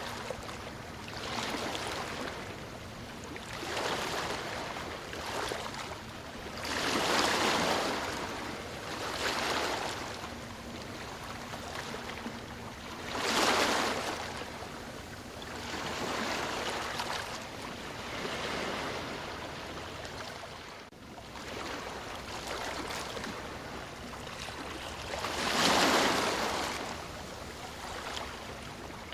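Ocean waves breaking and washing onto the shore, the surf swelling and falling back every few seconds, with the biggest waves about seven, thirteen and twenty-six seconds in.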